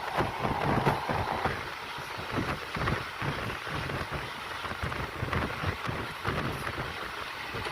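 Express passenger train on the move: a steady rushing noise over an uneven low rumble and rattle.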